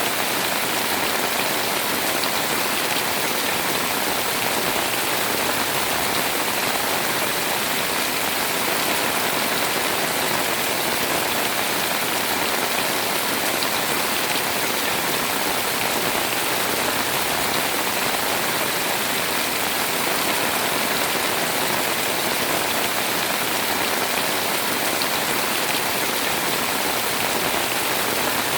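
Heavy rain pouring steadily onto a house, an even hiss with faint scattered drop ticks.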